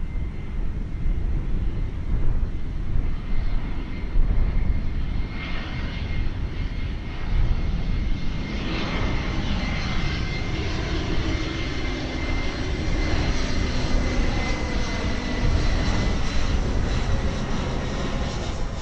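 Jet airliner passing low overhead: a steady high engine whine over a low rumble. The sound fills out about halfway through and drops off near the end.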